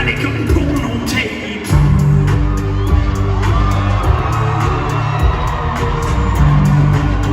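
Live band playing a pop song, heard from the audience, with heavy bass, steady drum hits and a sung vocal line. The bass drops out for half a second about a second in, then comes back hard.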